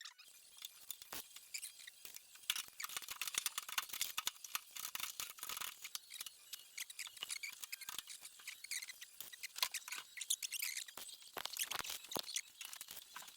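Welding arc crackling and spitting in dense, irregular bursts while the new cowl panel's sheet-metal seams are welded to the body.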